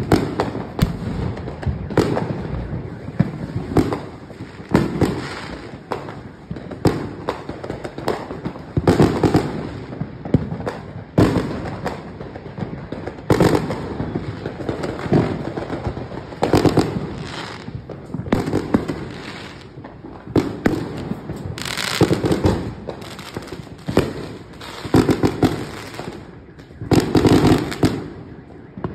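Fireworks going off again and again: a near-continuous run of sharp bangs and pops, with louder clusters every two to three seconds.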